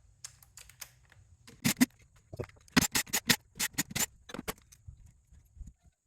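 Small metal scrap parts clinking and clattering as they are handled and dropped, with a quick run of sharp clinks about three seconds in.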